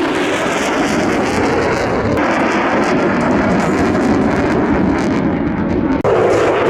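F-35C fighter jet's engine roaring, a loud, steady rush of jet noise that changes abruptly about two seconds in and again about six seconds in.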